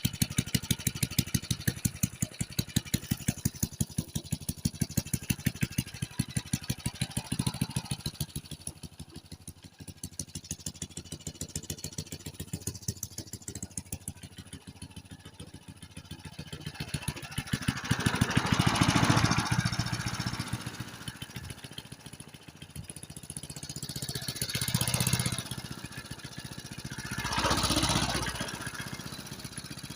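Single-cylinder 1972 Briggs and Stratton engine on a vintage walk-behind lawnmower running steadily while mowing, with an even firing beat. In the second half it swells louder three times with a rushing noise.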